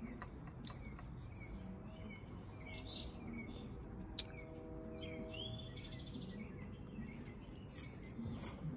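Small birds chirping on and off, with a short buzzy trill about six seconds in. A fork clicks lightly against a ceramic ramekin now and then.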